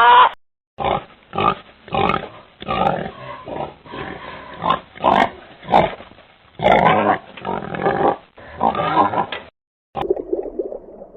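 Pig grunting and squealing, about a dozen short calls in quick succession, then a quieter, different sound near the end.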